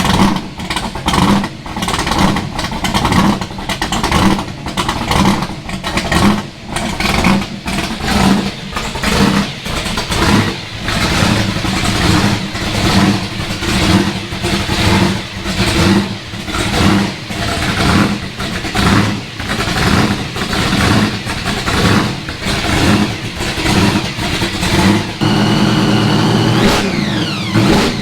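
Ford Mustang Shelby GT500 V8 running through a newly fitted aftermarket exhaust, swelling and easing about once a second, then settling to a steadier note near the end.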